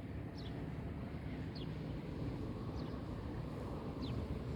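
Outdoor ambience: a steady low rumble of background noise, with a bird repeating a short, falling chirp about once every second or so.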